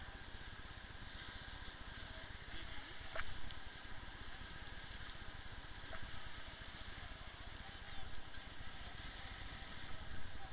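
Engine of a small motorboat running steadily, a continuous low hum with a faint tick or two.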